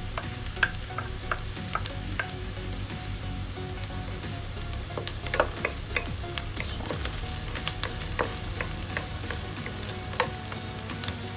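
Chopped garlic and onion sizzling in hot oil in a pot, with a wooden spoon stirring and knocking against the pot in scattered taps.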